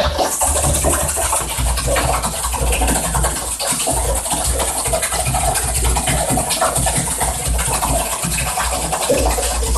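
Wet concrete being poured into a foundation form, a continuous rough scraping and sliding, over the steady low hum of an engine running throughout.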